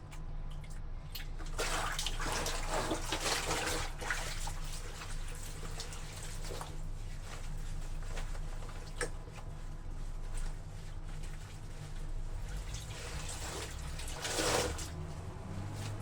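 Water sloshing and splashing in a basin of wet laundry being washed by hand or trodden underfoot. It comes in uneven bursts, a longer one a couple of seconds in and another near the end, with drips and small clicks between, over a steady low hum.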